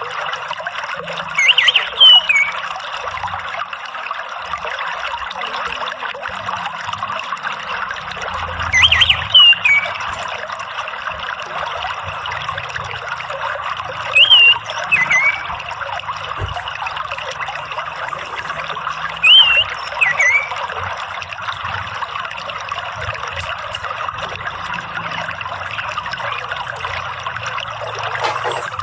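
Steady trickling water with an orange-headed thrush calling over it. It gives four short phrases of quick up-and-down whistled notes, about every five to six seconds, each louder than the water.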